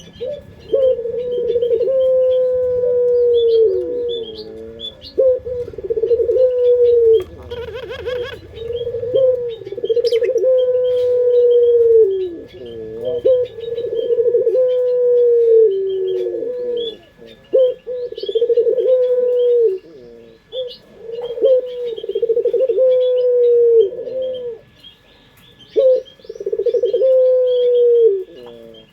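Puter pelung, a Barbary dove, cooing over and over: long coos, one every second or two, each dropping in pitch at its end. Small birds chirp high in the background.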